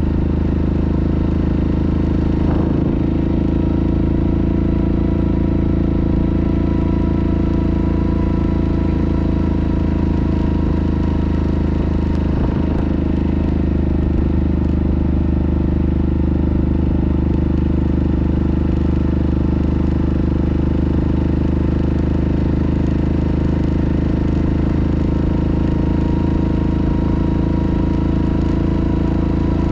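Yamaha Grizzly ATV's single-cylinder four-stroke engine running steadily at an even pitch, with a couple of faint knocks.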